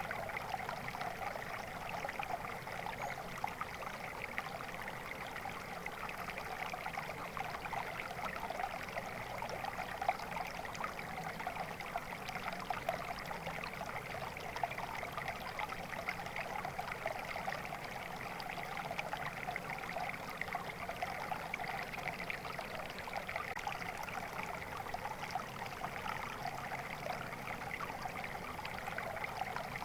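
Water flowing steadily in a stream, an unbroken babbling and trickling rush.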